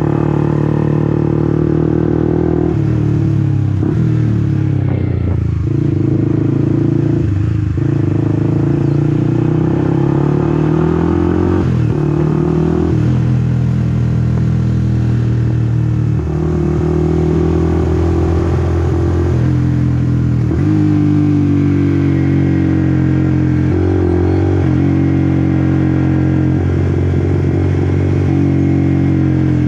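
Honda CBR150R's single-cylinder engine running while riding, its pitch climbing with the revs and then dropping sharply at each gear change, many times over.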